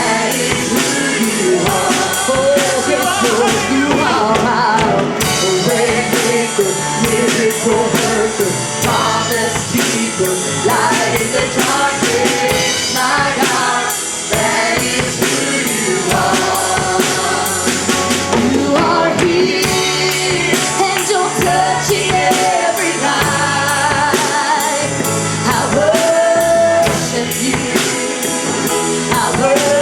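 Live church worship music: a band with a drum kit playing while a singer holds a wavering melody.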